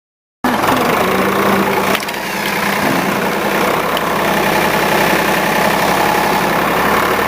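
Backhoe engine running steadily, starting abruptly about half a second in, with a slight dip and change in its note around two seconds in.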